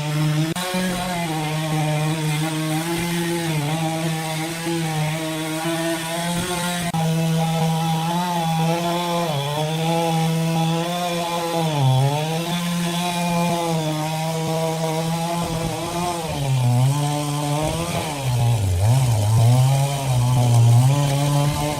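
Engine-driven sawmill saw running at high speed through red oak, a steady engine note that sags in pitch briefly about halfway through and several times near the end as it bogs under the load of the cut.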